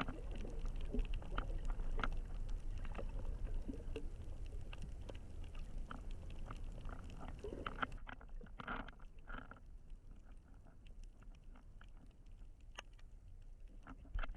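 Muffled underwater sound through a GoPro housing: a low rumble with many scattered small clicks and crackles. About halfway through the higher sounds drop out and it gets quieter.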